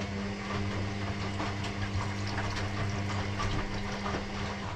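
Electrolux ecobubble washing machine's pump running with a steady hum and water gurgling through it, then stopping shortly before the end.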